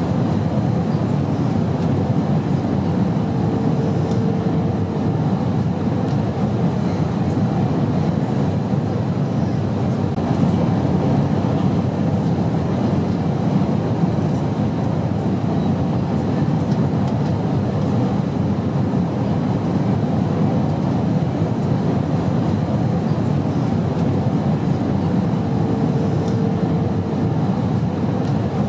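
Airplane in flight: a steady, low, even drone with no breaks. A faint hum rises out of it twice, a few seconds in and again near the end.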